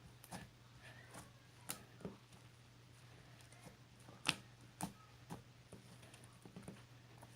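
Faint, irregular clicks and taps, about a dozen scattered through, the sharpest a little past four seconds in, over a steady low hum.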